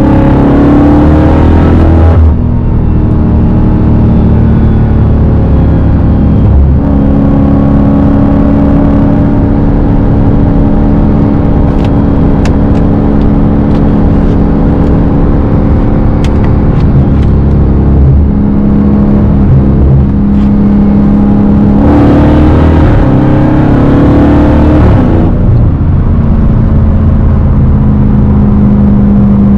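Straight-piped Dodge Hellcat's supercharged 6.2-litre V8 running loud while driving. It revs up hard at the start and again about three quarters of the way through, and holds a steady drone in between.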